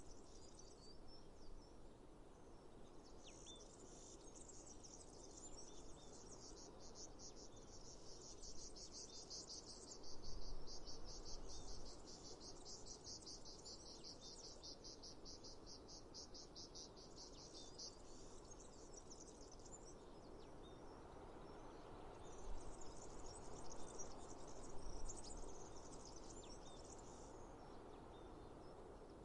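Insects chirping in a fast, even pulsing trill. It starts a few seconds in, drops out about two-thirds of the way through and returns briefly before the end, over a faint outdoor hiss.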